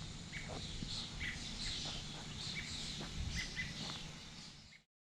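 Birds chirping in short repeated calls over a low outdoor rumble, the sound fading out just before the end.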